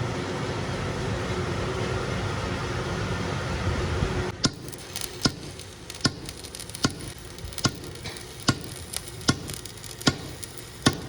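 A steady workshop machine noise stops abruptly about four seconds in. It is followed by a run of sharp, evenly spaced hammer strikes on metal, a little under one a second.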